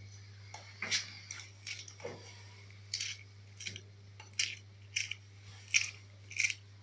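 Kitchen knife cutting bell pepper: about ten short, crisp cuts and clicks at an irregular pace.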